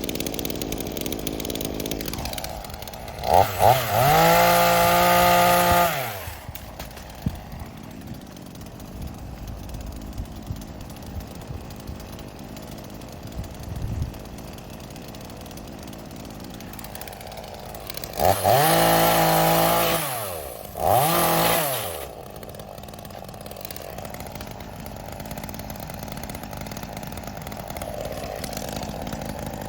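Chainsaw engine idling, then revved up to full speed three times for a few seconds each, dropping back to idle between, as it cuts back a tree.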